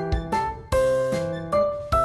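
Background music: a piano or keyboard tune over a steady drum beat.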